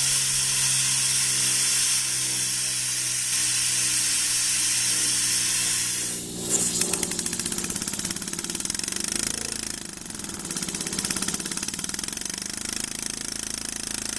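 A steady hiss with a low hum for about six seconds. Then the home-built 'Runner' model steam engine gets going and runs with rapid, even exhaust puffs, easing briefly near ten seconds before picking up again.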